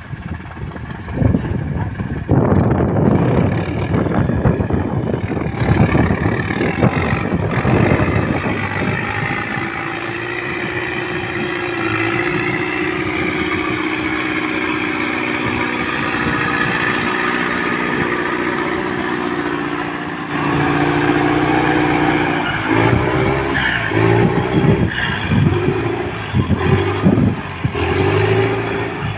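Farm tractor engine working under load in boggy ground, rough and clattery at first, then holding a steady note, then louder with its pitch rising and falling from about twenty seconds in as the throttle changes.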